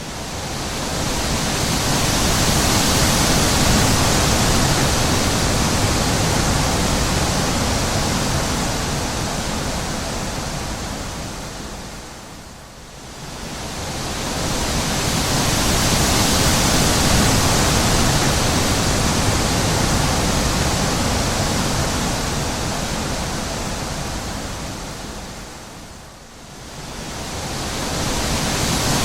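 Wind blowing in long gusts that swell up and die away, easing off almost completely twice, about every thirteen seconds.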